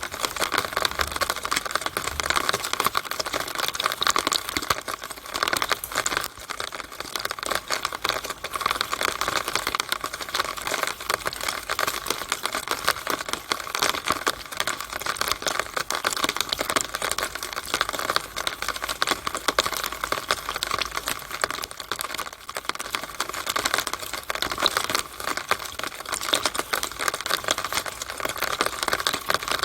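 Rainwater in a downspout: a dense, steady patter of irregular drips and taps as rain runs down and drips inside the drainpipe.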